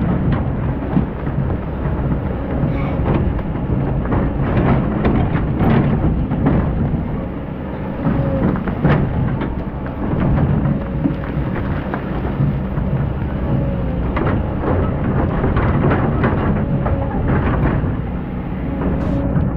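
Excavator engine running with a heavy low rumble, with many short scrapes and knocks from the bucket working hard packed sand.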